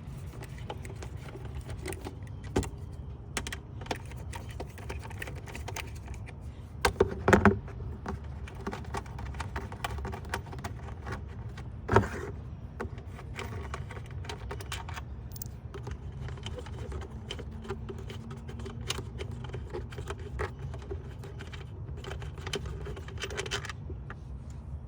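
Small metallic clicks and rattles of hand tools, an Allen wrench, working on the engine cover bolts, with louder knocks about seven and twelve seconds in, over a steady low hum.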